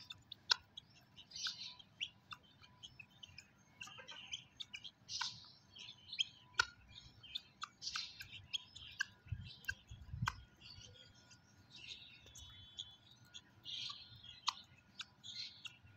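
Birds chirping in short, high calls, with sharp clicks scattered throughout.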